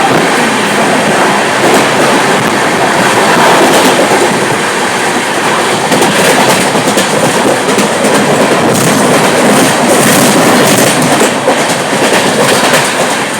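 Train running at speed: a loud, steady rushing of wheels and rails, with sharp clickety-clack strikes of wheels over rail joints standing out in the later part.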